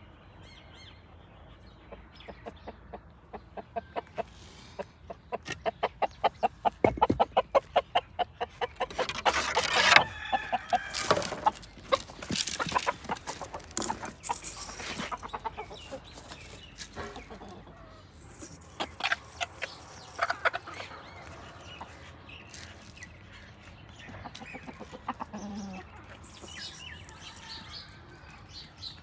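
Domestic hens clucking: a quickening run of short clucks, about four a second, builds to louder calls about ten seconds in, then scattered clucking.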